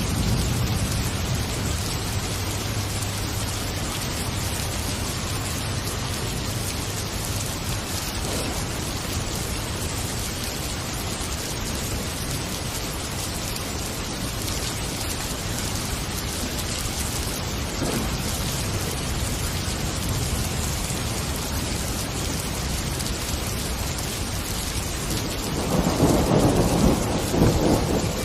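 Heavy rain falling steadily in a thunderstorm, with a louder rumble of thunder near the end.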